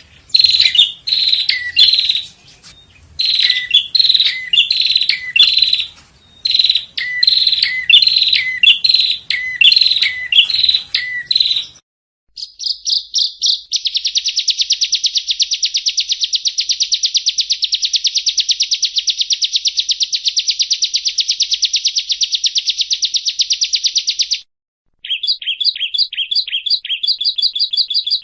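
Yellow-bellied prinia (prenjak rowo) calling: about twelve seconds of quick, repeated sharp chirps, then after a short gap a long, fast, even trill lasting about ten seconds, and near the end a series of quick clipped notes.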